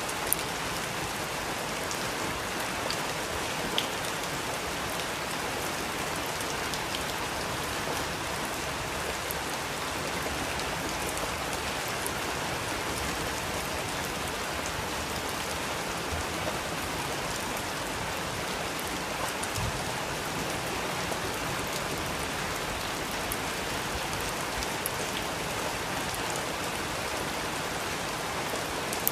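Steady rain falling on a surface, a dense even patter with occasional louder individual drops.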